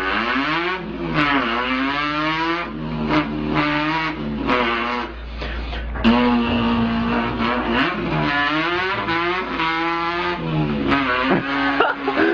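A man imitating a revving import car engine with his voice. The pitch climbs again and again as if running up through the gears, with a long held note about halfway through.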